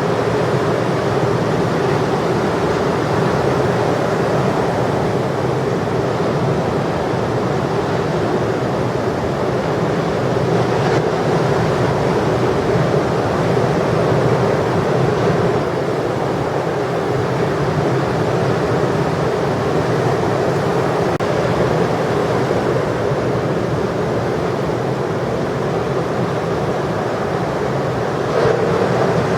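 Steady noise of heavy ocean surf mixed with wind on the microphone, with no clear individual wave breaks.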